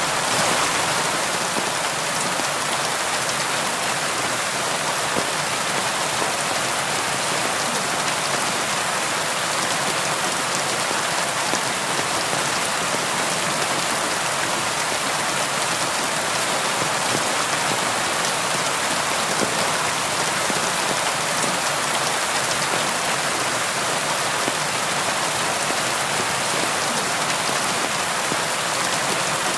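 Steady rain falling on a window: an even hiss of many drops with no let-up and little low rumble.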